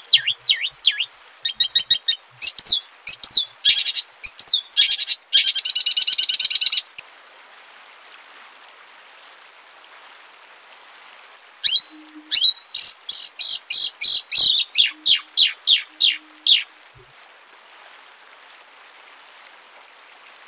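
A songbird sings in two bouts of quick, high, sweeping notes. The first runs for about seven seconds and ends in a fast trill; the second starts after a pause of about five seconds and has about four notes a second. A faint steady hiss lies under both.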